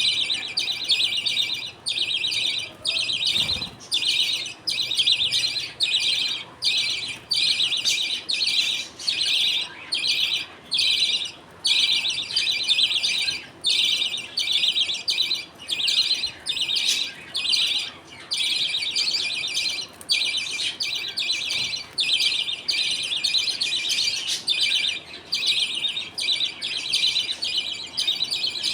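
A colony of budgerigars chattering: dense, high-pitched chirping in bursts with short breaks about every second.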